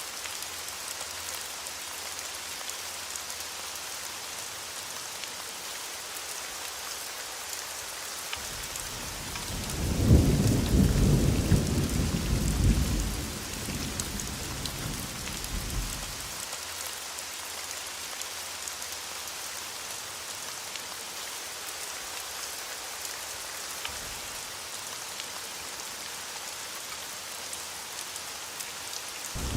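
Steady heavy rain hissing, with a roll of thunder about a third of the way in that rumbles loudest at its start and fades over about six seconds; another rumble begins at the very end.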